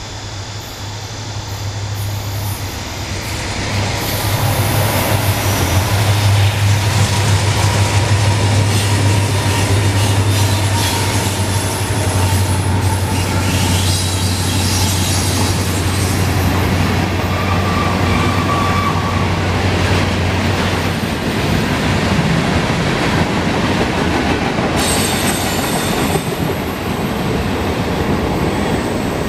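Freight train passing: the steady drone of its diesel locomotives for the first twenty seconds or so, then the freight cars rolling by with wheel-on-rail noise and a brief wheel squeal.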